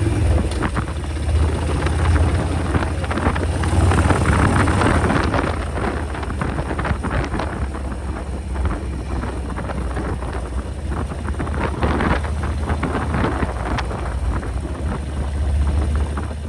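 Harley-Davidson XL1200R Sportster's 1200 cc air-cooled V-twin running with a deep low throb, its level rising and easing as the revs change, with wind noise on the microphone.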